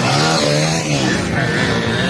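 Several pit bike engines revving together through a corner, their pitches overlapping and sliding up and down as the riders work the throttle.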